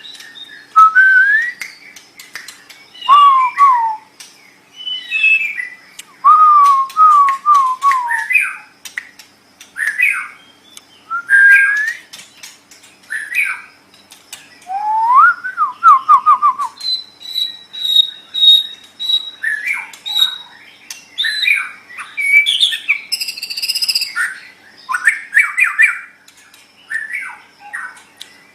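White-rumped shama (murai batu) singing: a continuous run of loud, varied whistled phrases with sliding notes and quick trills. In the second half come a string of rapid, high repeated notes and some harsher, buzzy notes.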